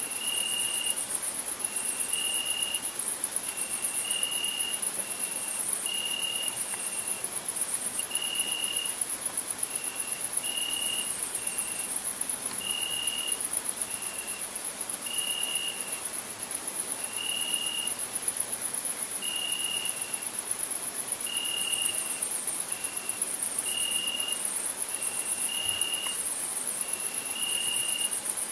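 Crickets chirring in a steady, high, fast-pulsing trill. Over it, a short, clear note at a lower pitch repeats about once a second.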